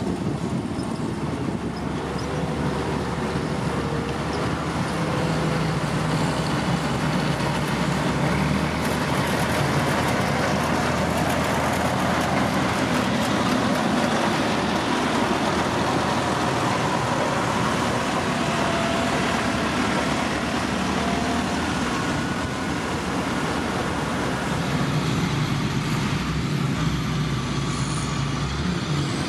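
Heavy diesel construction machinery running steadily at a gravel road site, the engine note shifting a few times.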